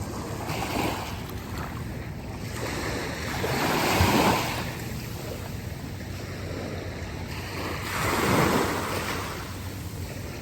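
Ocean surf washing onto a beach, with two louder waves about four seconds apart, and wind buffeting the microphone.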